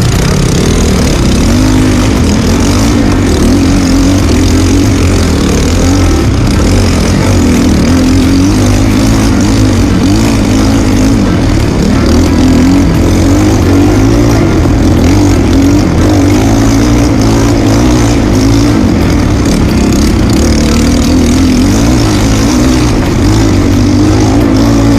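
Trail motorcycle engine running loudly as the bike is ridden, its pitch wavering up and down with the throttle.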